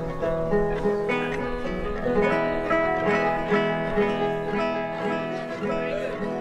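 Acoustic guitar music: plucked and strummed notes over a steady beat of about two strokes a second.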